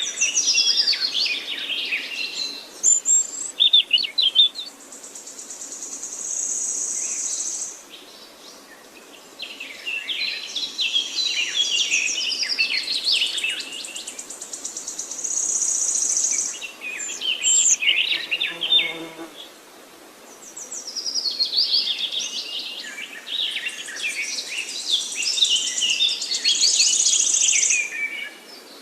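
Songbirds singing: varied, quick high song phrases with long high trills, in three long bouts with short pauses between them.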